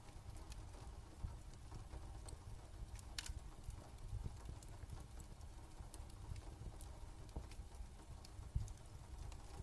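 Fire crackling, with sparse irregular pops and snaps over a steady low rumble.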